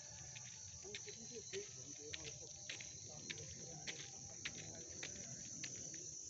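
Crickets trilling in a continuous high-pitched chorus at night, with scattered faint clicks.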